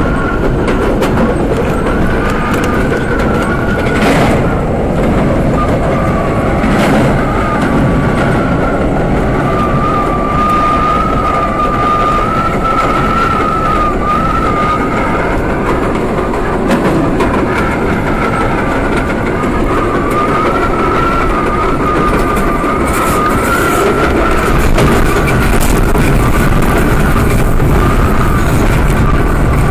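R32 subway car running on the track, a loud steady rumble with a wavering high whine over it and a few sharp clacks from the rails.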